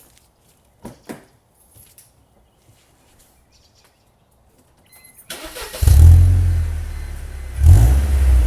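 Car engine started through a new Borla XL exhaust: after a few seconds of quiet with a couple of light clicks, the starter cranks and the engine fires with a loud burst, then settles into a deep idle. It is revved once briefly near the end.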